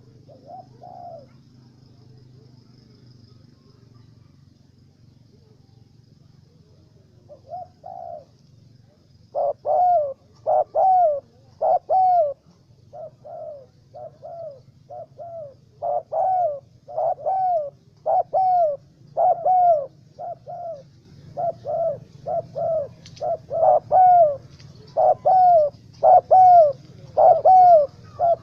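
Spotted doves (tekukur) cooing. A couple of calls come in the first seconds, then from about a third of the way through the coos repeat almost continuously, some loud and some fainter.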